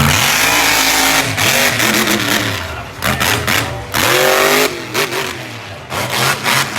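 Monster truck engine revving in repeated bursts, its pitch climbing and falling again several times, with a sharp rise about four seconds in.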